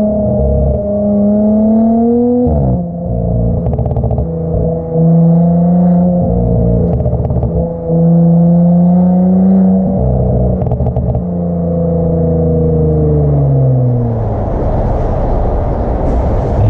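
Audi S5 B9's turbocharged 3.0-litre V6 through an AWE Track exhaust, its note holding and climbing with sudden drops in pitch and short crackles in between. Near the end the revs fall away and a rushing noise takes over.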